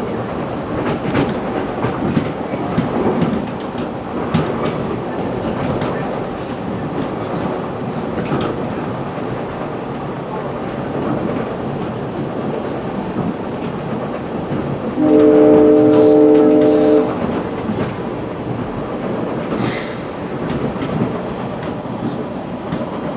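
West Coast Express commuter train running, with a steady rumble and wheel clatter heard from inside a passenger car. About fifteen seconds in, the train horn sounds one steady chord for about two seconds.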